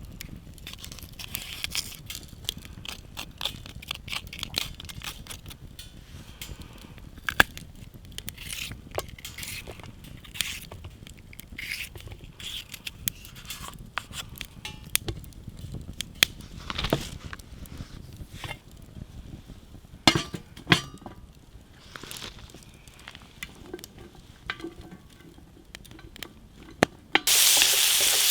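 Scattered crackles, clicks and light knocks from a small wood fire and cooking gear being handled. About a second before the end comes a sudden, much louder sizzle as food goes into a hot pan and starts frying.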